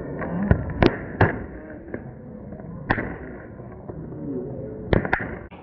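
Fireworks going off: about half a dozen sharp cracks at irregular intervals.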